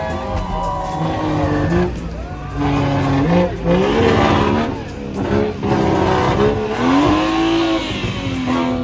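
Performance cars running hard, with engines revving and tyres squealing in wandering pitch glides that rise and fall several times.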